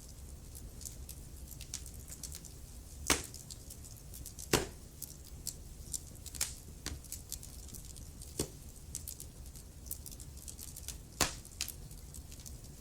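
Wood fire crackling, with a steady low rumble and many small ticks broken by sharp pops, the loudest about three, four and a half and eleven seconds in.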